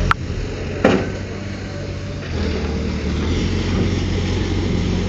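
Heavy earthmoving machine's diesel engine running steadily, with two sharp knocks, one just after the start and one a little under a second in.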